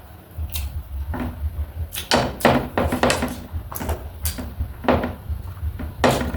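Someone chewing and crunching food close to the microphone, with a run of sharp, crackling crunches from about two seconds in. A steady low hum sits underneath.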